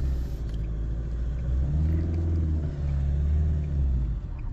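Car engine running and road rumble heard from inside the cabin as the car is driven slowly up a mountain road. The engine note swells and falls back about two seconds in.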